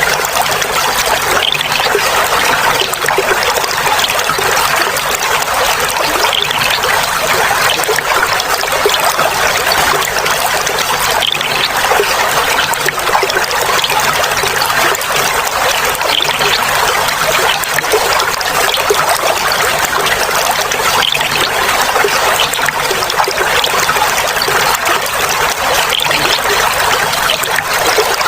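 Clear water flowing and trickling steadily, an even babbling with no pauses.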